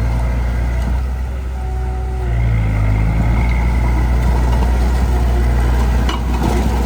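Heavy diesel engine of earthmoving machinery running, speeding up slightly about two seconds in. There is a single sharp knock near the end.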